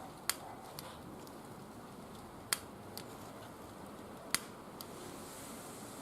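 Wood fire burning in a barbecue grill, crackling with sharp pops every couple of seconds. Each loud pop is followed by a fainter one about half a second later.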